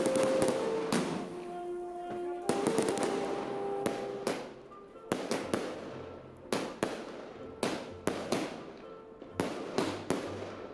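Fireworks bursting in rapid, irregular succession, each bang trailing off in a crackling, echoing tail. The densest, loudest bangs come in the first second, and a few steady held tones sound under the bangs in the first four seconds.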